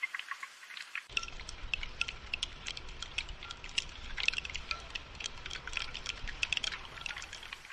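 Rain falling as a patter of separate drops, dripping and clinking. About a second in, a low rumble joins underneath and lasts almost to the end.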